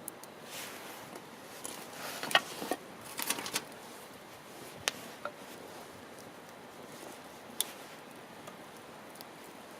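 Campfire of burning wood: a soft steady hiss with sharp crackles and pops, several in quick succession between about two and four seconds in, then single pops every second or two.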